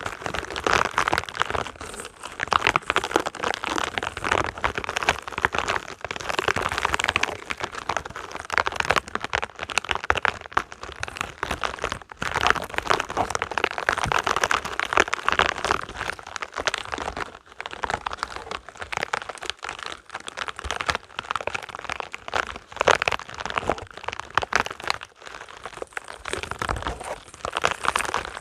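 Spiky rubber balls being handled, squeezed and rubbed: a dense, continuous run of crackling, crinkly scratches that swells and eases in waves.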